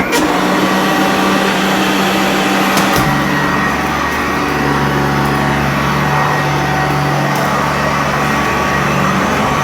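Sanitaire upright vacuum cleaner switched on and running steadily as it pre-vacuums carpet, its motor and brush roll giving a steady hum; the tone shifts slightly about three seconds in.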